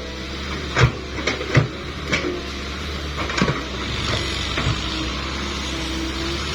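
Digging in hard, muddy ground, with irregular thuds and scrapes of a tool striking the soil, four louder knocks in the first few seconds. A steady low hum runs underneath.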